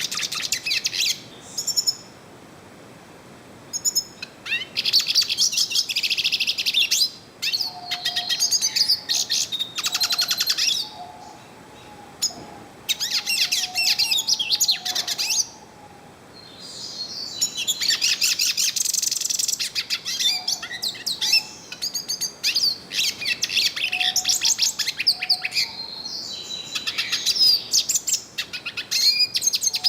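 Yellow-faced siskin (pintassilgo-do-nordeste) singing long, rapid, high twittering phrases of chirps and trills, broken by a few pauses of a second or two.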